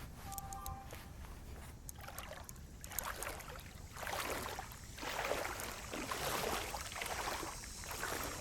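Legs wading through mid-calf-deep floodwater, sloshing and splashing with each stride, about one stride a second, starting about halfway through.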